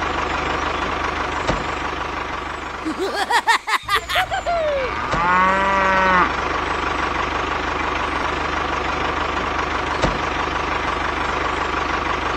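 Steady hum and whine of the small motors of a homemade mini tractor or mini JCB running. A cluster of quick pitch glides comes about three seconds in, and a single drawn-out call that rises and falls in pitch about five seconds in.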